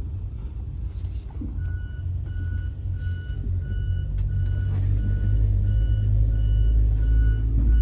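A vehicle's backup alarm beeping steadily, roughly one and a half beeps a second, starting a couple of seconds in. Under it is the low rumble of a truck engine running, which grows louder toward the end.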